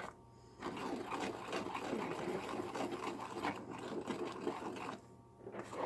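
Hot mixture of shortening, peanut butter, oatmeal and cornmeal bubbling and crackling in a pan as it heats up and foams. A dense run of small irregular crackles starts about half a second in and dies away about a second before the end.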